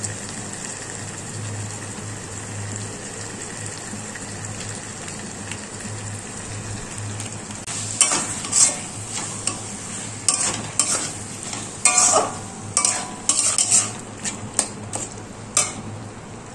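Onions and tomatoes frying in a metal wok with a steady sizzle. From about eight seconds in, a metal spatula scrapes and knocks against the pan in quick, irregular strokes as the masala is stirred.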